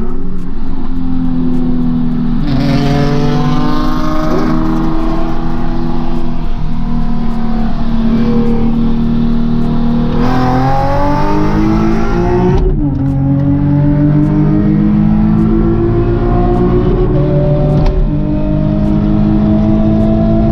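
Car engine pulling under acceleration, its pitch climbing slowly and dropping suddenly at gear changes, with a quicker rev climb about ten seconds in.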